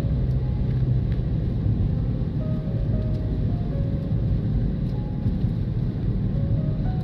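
Steady low rumble of a car driving, with soft music playing over it: a slow melody of short held notes.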